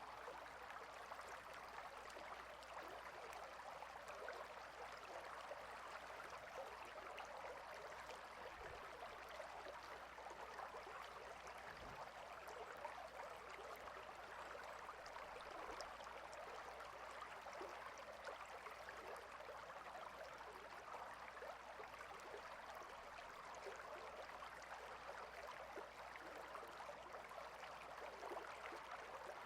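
Stream water rushing and babbling steadily, with no breaks.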